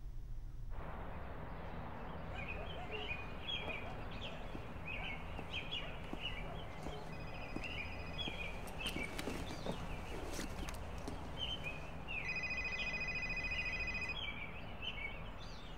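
Birds chirping repeatedly over steady outdoor background noise. A rapid buzzing trill comes in briefly about seven seconds in, then again for about two seconds near the end, louder.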